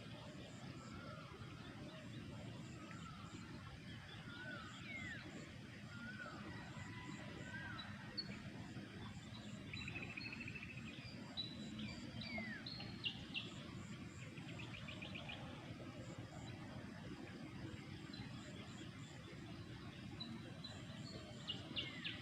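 Birds chirping and calling: scattered short whistled notes and a few quick trills, over a steady low background rumble.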